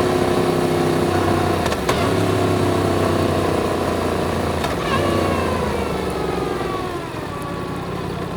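Yamaha MT-10's crossplane inline-four running under way, its pitch easing steadily downward through the second half as the bike slows. Two short, sharp clicks come about 2 and 5 seconds in.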